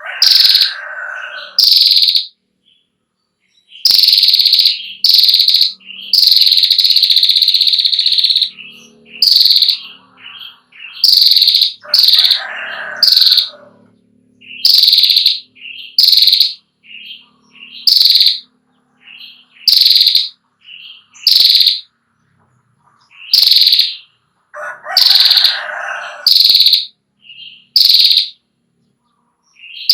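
Female prinia (prenjak klawu) giving its 'ngetir' trilling call in loud, high-pitched bursts about every second, one run held for about two seconds. A lower-pitched call from another bird sounds three times between the bursts.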